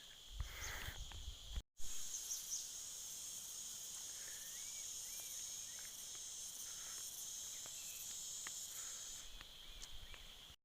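Steady high chirring of insects such as crickets or cicadas in forest, with a few faint bird chirps. The sound cuts out for an instant near the start.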